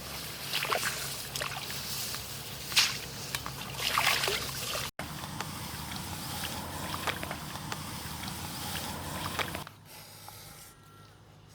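Water sloshing and splashing, with scattered sharper splashes, broken by a brief cut about halfway. It turns much quieter near the end.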